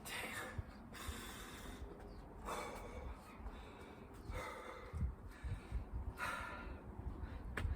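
A man breathing hard from exertion during burpees, with a loud breath about every two seconds and low thuds in between.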